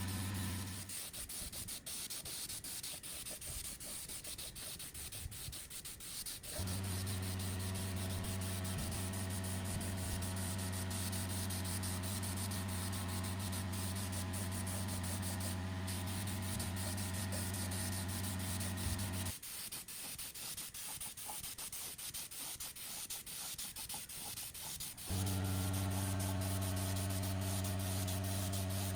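Restoration sanding of metal parts: a power tool's motor hums steadily, and it switches abruptly, twice, with stretches of scratchy rubbing and small clicks.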